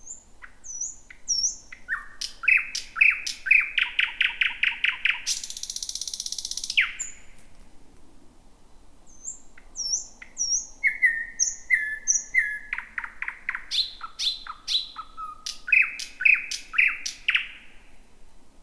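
Thrush nightingale singing: two long song phrases of fast, loud repeated notes, the first ending in a harsh rapid rattle, with thin high notes in the pauses between.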